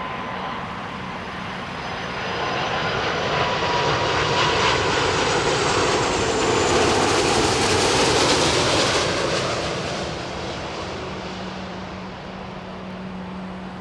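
Airbus A330-300's Rolls-Royce Trent 700 jet engines as the airliner passes on final approach to land. The roar swells to a peak about eight seconds in and then fades, with a whine that drops in pitch as it goes by.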